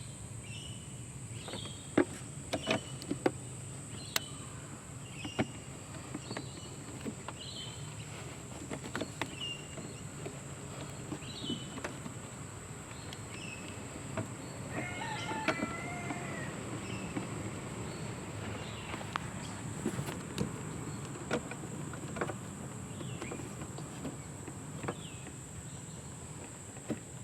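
Sharp clicks and knocks of metal and plastic parts being handled while air-conditioning gauge couplings and hoses are fitted, over birds chirping again and again. A longer wavering bird call comes about fifteen seconds in, and a steady high-pitched whine runs underneath.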